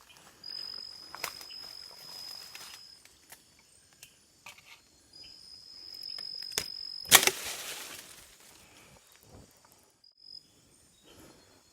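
A high, steady insect trill that starts and stops in stretches of about two seconds, over scattered footsteps and rustling. A sudden loud rustle about seven seconds in is the loudest sound.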